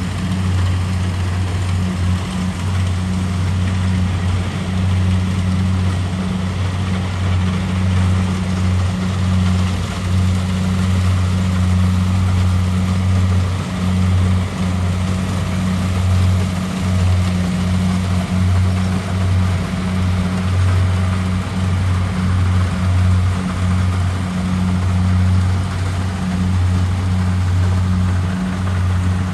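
Kubota DC-70 Pro combine harvester running steadily under a constant engine hum.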